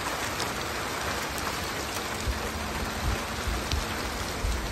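Steady rainfall, a fine even patter of drops. Low rumbles come and go from about two seconds in.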